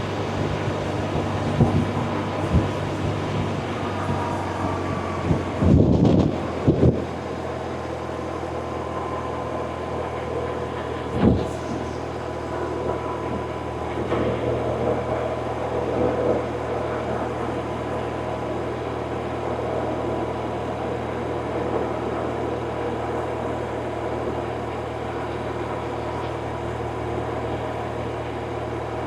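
BMW R1100RT's air/oil-cooled boxer twin engine running at a steady pace while the bike is ridden, with wind noise over it. A few louder bumps come about six to seven seconds in, and a single sharp knock about eleven seconds in.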